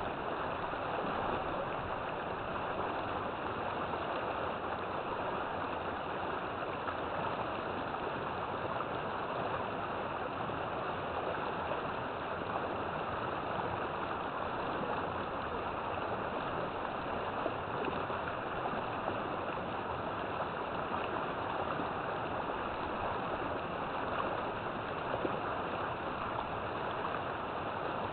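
River water flowing: a steady rushing flow with no let-up.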